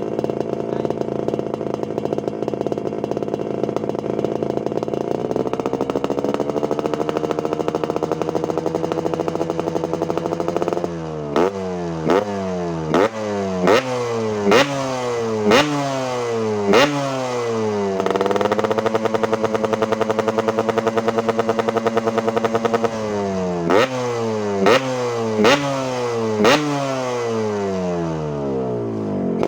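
Yamaha RX-King two-stroke single-cylinder engine through a hollowed-out trumpet exhaust. It is held at a steady rev that steps higher, then blipped sharply about once a second, each rev falling away after the blip. After a few seconds held steady again, it is blipped once more near the end.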